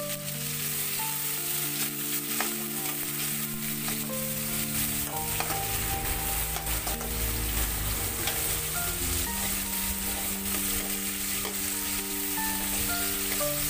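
Tomato, onion and garlic sizzling in hot oil in a wok, stirred with a metal spatula that scrapes and clicks against the pan now and then.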